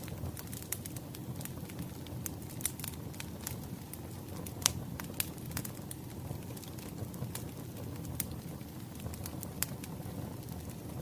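Wood fire crackling: irregular sharp pops and snaps over a steady low rumble, with the loudest pop about four and a half seconds in.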